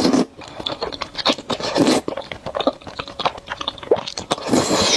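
Close-miked eating of noodles: wet chewing and mouth smacks, made of many short sharp clicks, with a couple of longer noisy swells near the start and near the end.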